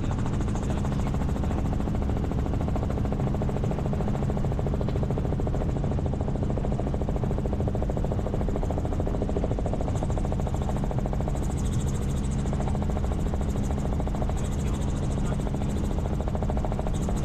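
Helicopter in steady flight: a constant, even drone of engine and rotor with strong low tones.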